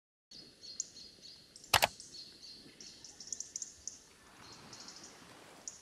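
Birds chirping in short, high calls over faint outdoor background noise, with one sharp knock a little under two seconds in.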